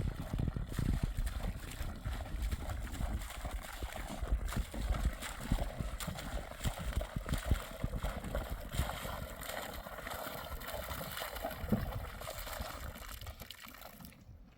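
Running water of a mountain stream, with irregular low thumps over it that are heaviest in the first half and die away near the end.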